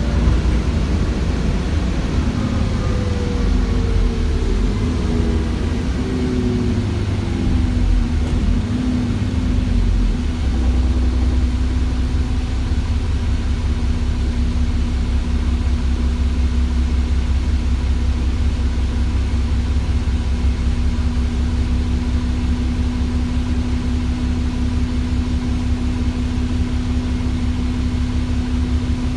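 ADL Enviro400 double-decker bus with a Cummins ISBe 6.7-litre diesel and a Voith automatic gearbox: for about the first ten seconds a whine falls in pitch as the bus slows, then the engine idles steadily with a deep rumble.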